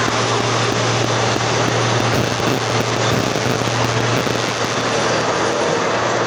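Moving freight train heard from aboard a car: a steady rushing noise over a constant low hum.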